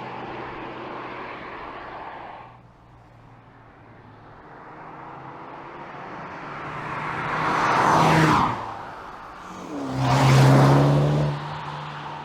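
2020 MINI John Cooper Works Clubman's turbocharged four-cylinder engine and exhaust as the car drives. A steady engine note gives way to two loud swells, about eight and ten and a half seconds in, the first with a falling pitch as it goes past.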